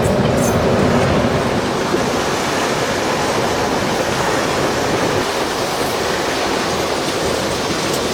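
Heritage train rolling past close by, a loud steady rushing noise of wheels and carriages with no clear beat.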